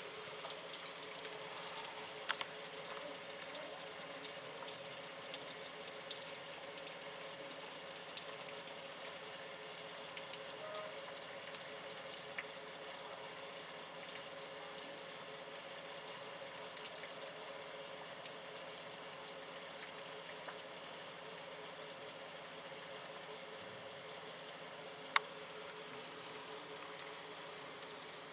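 Steady rain falling on a wet road and puddles. Faint scattered ticks and a low steady hum run underneath, and one sharp click comes a few seconds before the end.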